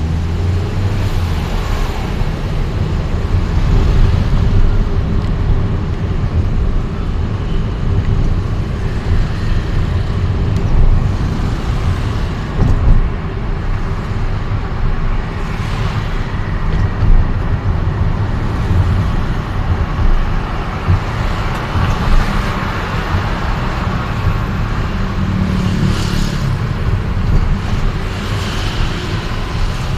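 Steady road traffic noise of vehicle engines and tyres on a city street, with a heavy low rumble and a few brief louder moments.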